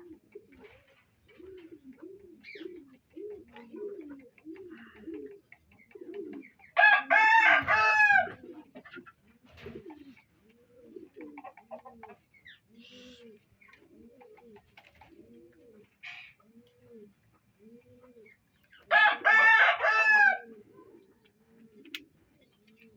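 A peacock calling twice, each time a loud short series of ringing, arched notes, about seven seconds in and again some twelve seconds later. Between and under them, pigeons coo steadily, about two coos a second.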